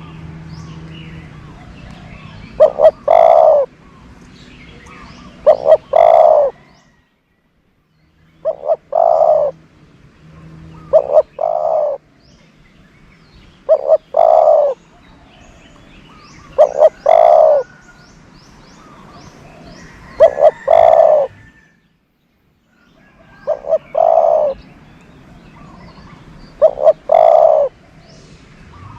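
Spotted dove (decoy bird) cooing over and over: nine calls about three seconds apart, each two short notes followed by a longer, drawn-out coo. Faint high chirps of other birds sound between the calls.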